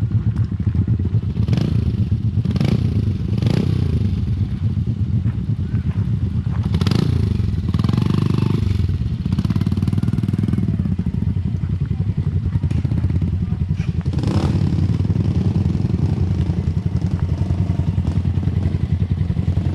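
Motorcycle engine running steadily with a fast, even exhaust pulse. A few sharp knocks or clacks come through it, three in the first few seconds and two more later on.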